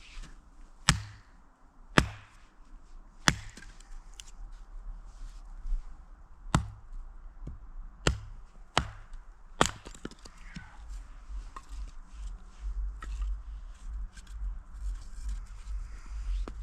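Chopping strikes, about eight sharp blows a second or so apart over the first ten seconds, then softer rustling and handling noise over a low rumble.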